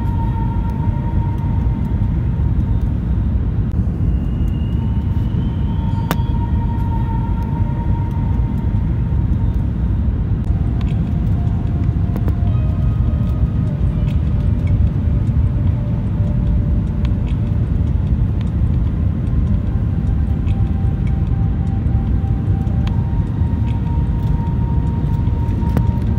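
Steady low rumble of airliner cabin noise while the plane taxis after landing, with faint sustained tones over it.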